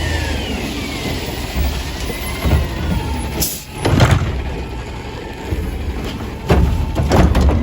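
Garbage truck's diesel engine running, with a hydraulic whine falling away in pitch in the first second. A sharp hiss-and-bang comes about halfway through, then a run of metal clanks near the end.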